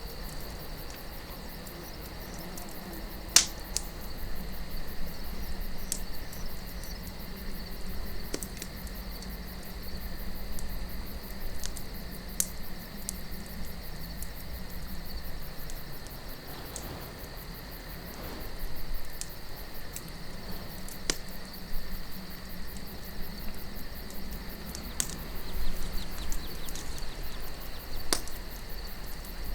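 Wood campfire crackling, with scattered sharp pops, one loud pop a few seconds in, over a steady high chirring of crickets and a low rush of wind.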